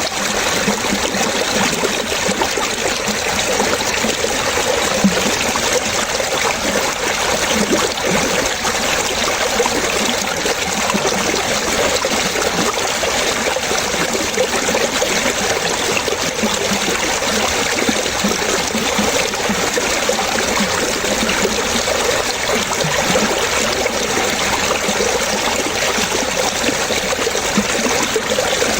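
Running water trickling and splashing steadily, with many small bubbling plops.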